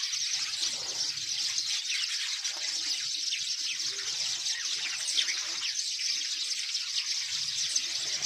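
A flock of small birds chirping all at once, many short, high, falling chirps overlapping in a constant chatter.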